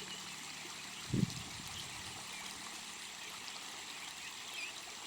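Stream water flowing steadily, with a single low thump about a second in.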